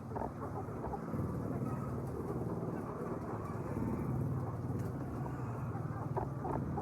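A large flock of chickens in a poultry shed, a dense mass of overlapping clucks and chirps over a low steady hum.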